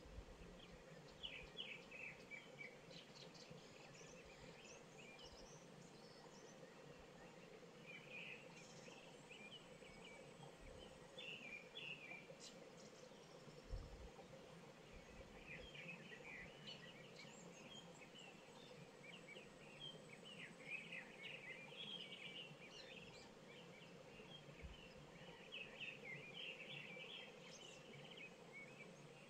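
Faint birds chirping and twittering in scattered bursts that grow busier from about halfway through, over a faint steady background hum.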